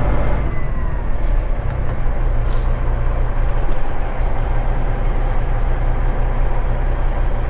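Straight-piped Caterpillar 3406E diesel engine of a Kenworth W900 running steadily with a deep note; about half a second in the revs drop and a high whine falls away.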